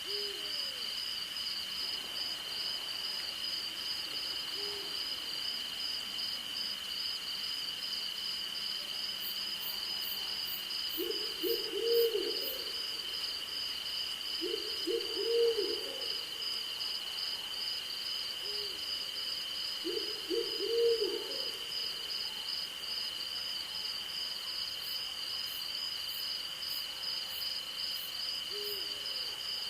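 Owl hooting: three short series of three or four hoots in the middle of the stretch, the loudest sounds, with single soft hoots between them, over a steady high chorus of crickets and other night insects at two pitches.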